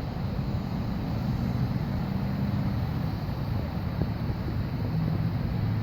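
A motor vehicle's engine running steadily at a low hum, with wind buffeting the phone's microphone.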